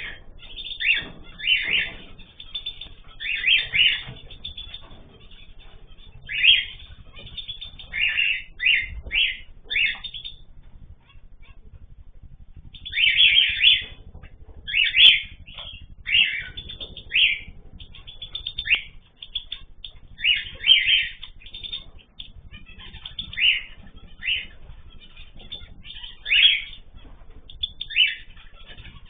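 Mixed ornamental cage birds calling: many short, loud chirps and squawks in irregular clusters, with a brief lull about eleven seconds in.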